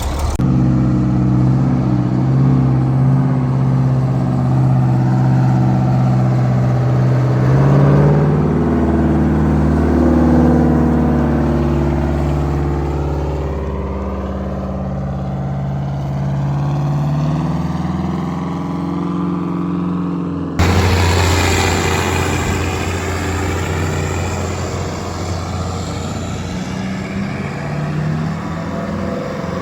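Vintage truck engines running as the trucks drive by, the engine note stepping up and falling back with throttle and gear changes. About two-thirds of the way through, the sound switches abruptly to a different truck's engine.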